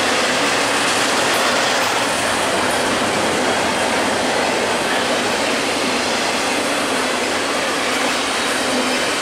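BNSF double-stack container train rolling past: a loud, steady noise of steel wheels running on the rails as the stacked container cars go by.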